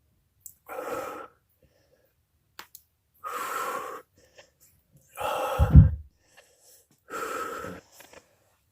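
A man breathing out hard four times, about two seconds apart, with each rep of a dumbbell exercise. A low thump comes with the third breath.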